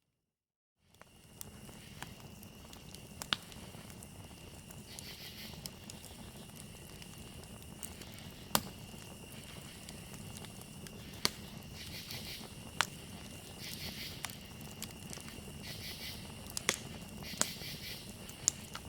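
Campfire crackling, with sharp wood pops every second or two, over a steady high trill of crickets. It starts about a second in, after a moment of silence.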